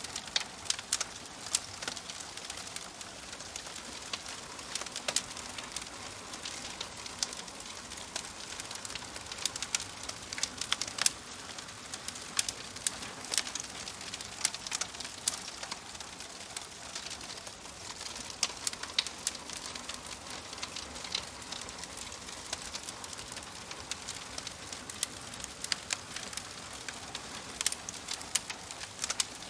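Fireplace fire crackling: frequent irregular sharp pops and snaps over a steady soft hiss.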